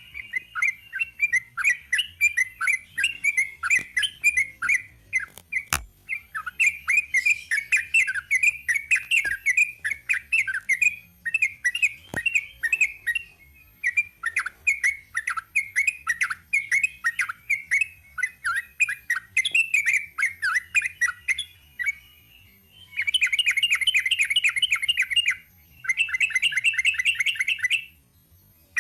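Yellow-vented bulbul (trucukan) singing a long, rapid chattering song of quick notes, broken by a few short pauses, ending in two fast, even trills near the end.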